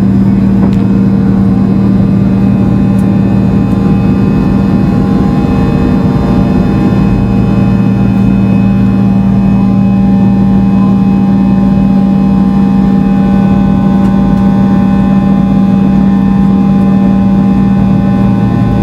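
Fokker 70's rear-mounted Rolls-Royce Tay turbofans running steadily at high power, a loud, even engine buzz with one strong low tone and a stack of higher tones, heard from inside the cabin.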